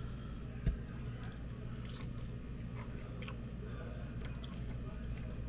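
A person biting and chewing a piece of barbecued chicken skin, with faint clicks of chewing over a steady low room hum. There is a sharp knock just under a second in.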